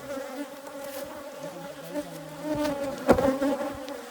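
Many Africanized hybrid honeybees buzzing around an open hive, a steady drone that swells about two and a half seconds in. A sharp knock sounds about three seconds in.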